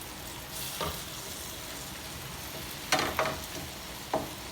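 Onions and garlic sizzling in a pan of olive oil and melting butter, with a utensil knocking against the pan several times as it is stirred.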